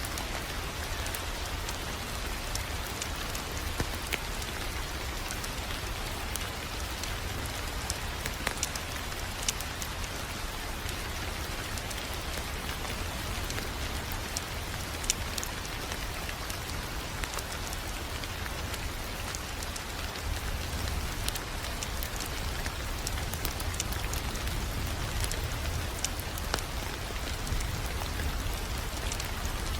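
Wood fire crackling in a fireplace: a steady hiss with a low rumble underneath, broken by irregular sharp pops and snaps.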